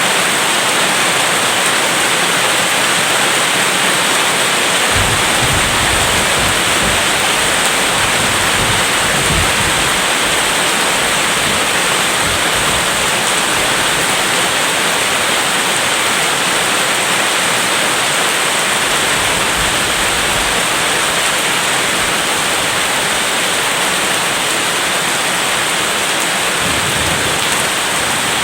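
Steady heavy rain, with low rolling thunder coming in about five seconds in and rumbling on and off.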